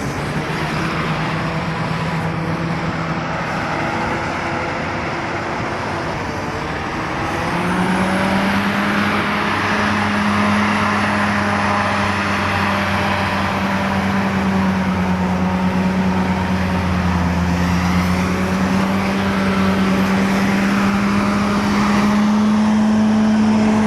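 Motorcycle engine running steadily while riding, its pitch rising about seven seconds in as it picks up speed, over a steady rushing noise.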